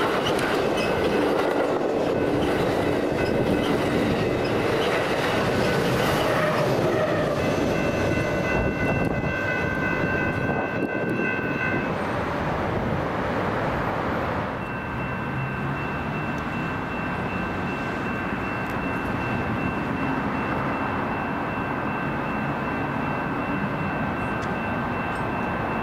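Passenger train rolling past, wheels clattering on the rails, with a steady high-pitched whine through much of it. The noise eases slightly after about fourteen seconds.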